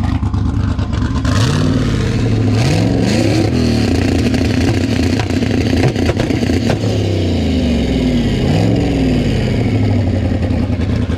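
Pontiac Firebird's engine running hard in a burnout, its revs climbing in two sweeps, one early and one late, over steady tyre and exhaust noise.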